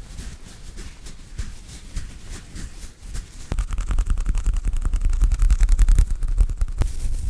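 Close-miked ASMR trigger sounds: rapid, dense clicking and crackling of an object handled right at the microphone. About three and a half seconds in, a heavy low rumble joins it and grows louder.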